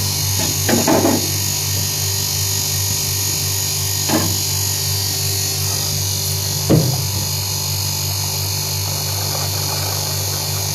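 An electric motor running with a steady low hum, interrupted by a few brief knocks about a second in, about four seconds in and near seven seconds in.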